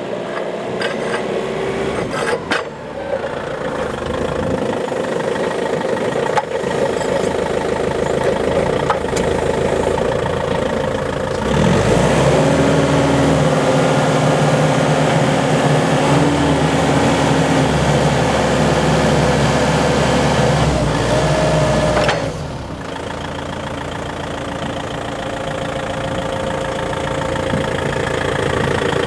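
Still RC40-35 diesel forklift engine running at idle, then revved for about ten seconds in the middle, louder and steady at a higher pitch, before it drops back to idle.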